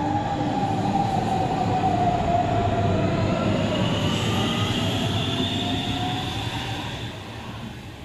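Hamburg S-Bahn electric train pulling out of the station. Its electric drive whines, first a tone falling in pitch, then a higher tone rising as it speeds up, over the rumble of the wheels. The sound fades as the train leaves near the end.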